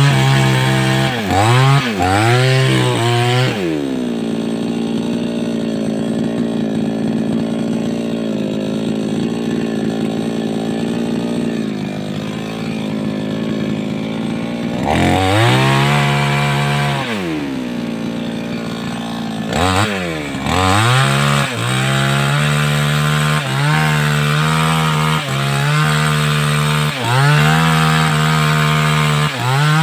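Two-stroke 588X chainsaw blipped up and down a few times, then dropping to a lower steady run for about ten seconds; it revs up again, drops briefly, and then runs at high speed with short, frequent dips in pitch, typical of cutting into a large log.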